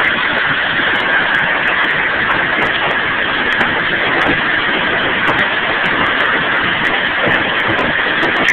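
Hail falling in a heavy storm: a dense, steady hiss of hailstones striking, with many sharp separate hits scattered throughout.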